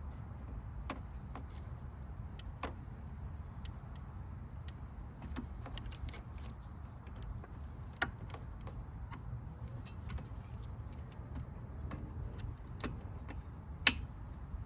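Scattered light clicks and metallic clinks of parts and tools being handled during hands-on reassembly under a car's hood, over a steady low hum. A sharper click comes about eight seconds in, and the loudest one near the end.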